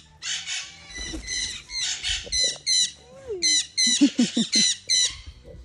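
Pet birds giving a rapid series of short, shrill squawking calls, over a dozen in quick succession.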